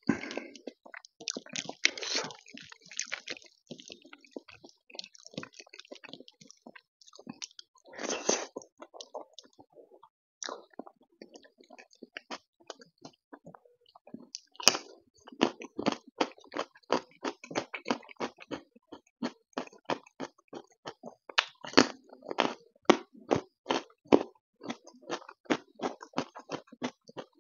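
Close-miked mouth sounds of eating rice and taro root curry by hand, wet chewing, then a sharp bite into a raw carrot slice about halfway in, followed by a steady run of crisp crunches, about three a second, as the carrot is chewed.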